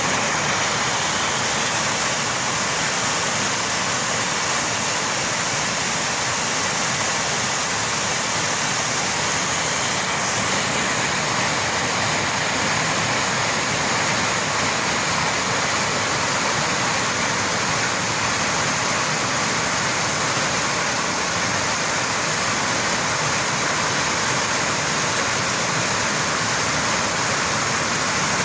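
Steady, unbroken rush of water, in keeping with floodwater flowing and heavy rain.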